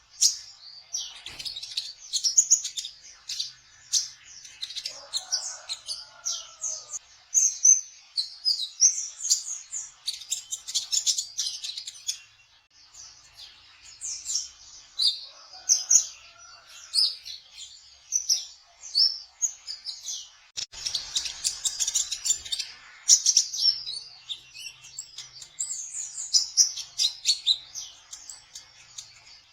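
Sunbird of the kind Indonesian keepers call kolibri ninja trotol, singing a fast, high-pitched twittering song of quick chirps and short trills, with brief pauses between phrases.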